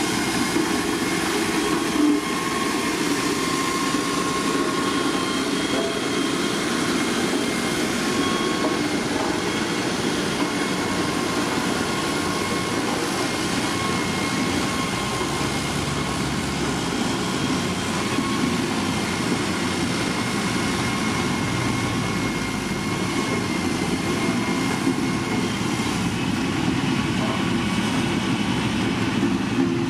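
Diesel engine of heavy road-building machinery running steadily under work, with a faint steady high whine over the engine noise.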